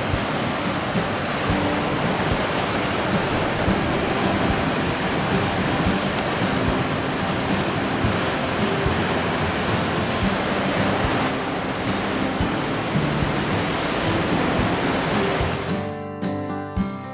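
Sea surf, a steady loud rush of waves, with background acoustic guitar music underneath; the surf fades out near the end, leaving the music.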